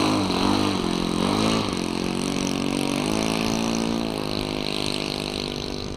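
Kadet LT40 model plane's nitro glow engine running at taxi throttle, its pitch rising and falling as the throttle is blipped. It grows quieter near the end as the plane moves away.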